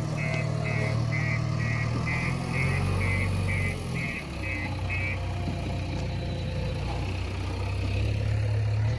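Diesel engine of a backhoe loader running steadily, easing off briefly about four seconds in and picking up again near the end. Over it, a high electronic beeping repeats about twice a second for the first five seconds, then stops, as from a reversing alarm.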